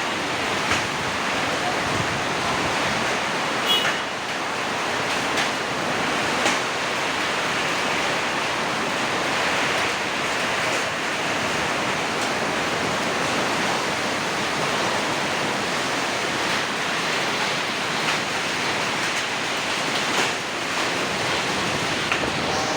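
Heavy rain and hail driven by strong wind, a steady loud downpour noise with a few sharp knocks of hailstones striking.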